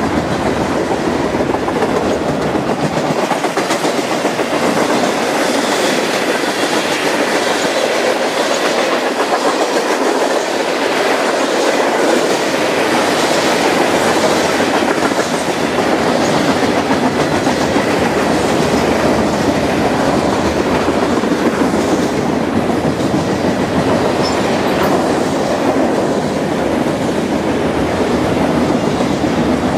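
Freight train cars rolling past, their wheels clacking steadily over the rail joints. The deep rumble drops away after the first few seconds.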